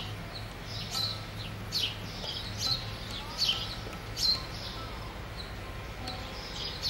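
A bird chirping over and over: short, high, down-slurred chirps, roughly one a second, over a steady low hum.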